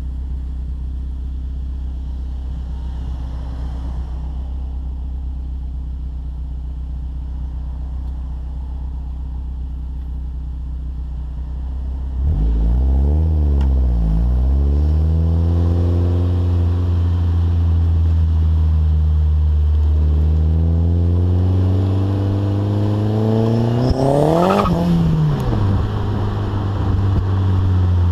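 Exhaust of a VW Passat's turbocharged 1.8T four-cylinder through a 3-inch test pipe, Magnaflow glass pack and Borla Pro XS muffler: a steady low drone, then about twelve seconds in it gets louder with two quick revs up and down. A longer rev climbs for several seconds near the end and drops back sharply.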